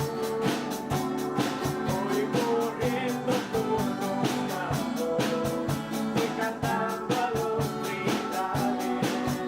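Band playing an instrumental passage between sung verses, with a quick, even drum beat under sustained melodic instrument lines.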